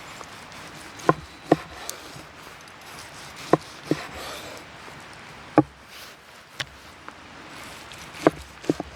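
Sharp wooden knocks, about eight of them spaced irregularly, several in close pairs, over a steady faint hiss.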